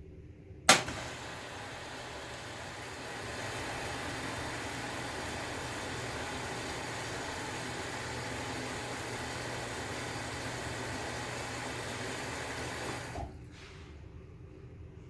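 Maytag washing machine switching on with a loud click, then running with a steady hum and hiss for about twelve seconds before cutting off suddenly.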